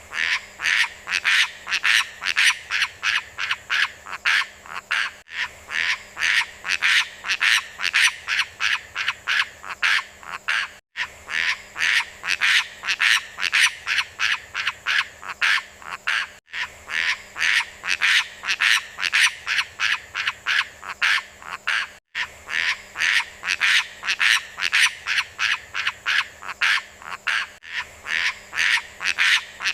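Rapid series of rhythmic croaking animal calls, about four a second, repeating in a short recording that loops about every five and a half seconds with a brief gap at each join.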